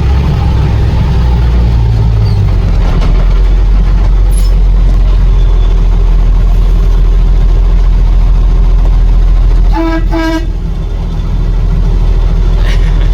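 International DT466 inline-six turbo diesel of a 1987 S1900 dump truck running steadily under way, a loud low drone. About ten seconds in, a horn gives two short toots.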